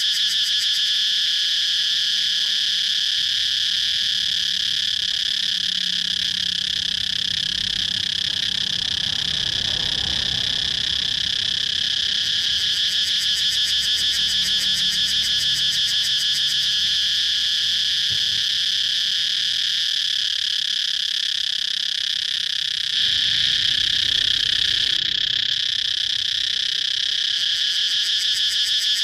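Cicadas chirping: a steady, rapidly pulsing high buzz that never lets up and grows slightly louder past two-thirds of the way through.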